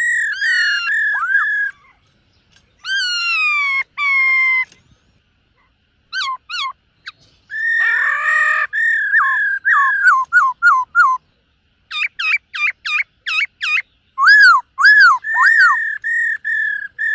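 Black-throated laughingthrush singing loud, clear whistled phrases: long level whistles broken by quick dipping notes, then about halfway through runs of rapid rising and falling whistles, with short pauses between phrases.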